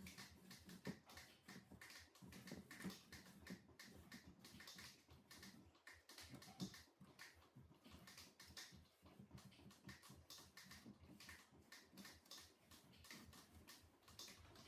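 Faint, irregular small clicks and taps throughout, over a low steady hum.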